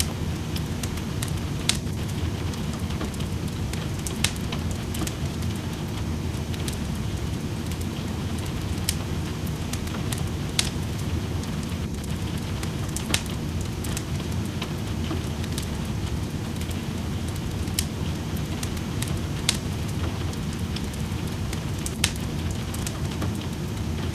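Wood fire crackling in a fireplace, with sharp pops every second or two, over a steady rain.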